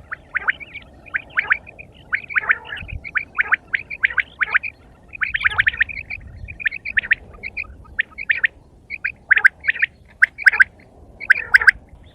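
Quail calling: a quick run of short, sharp chirping notes in irregular groups, with brief pauses.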